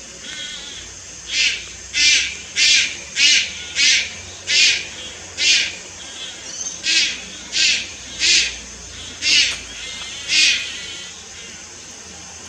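Juvenile Malayan night heron giving a rapid series of short, harsh hissing calls, about one every two-thirds of a second, stopping about two seconds before the end.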